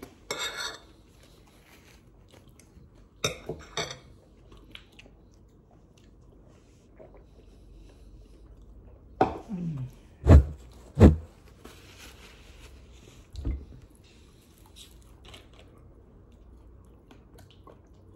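Close-up chewing and crunching of crispy fried chicken, with scattered short crackles and clicks. Two loud thumps come about ten and eleven seconds in, and a softer one a couple of seconds later.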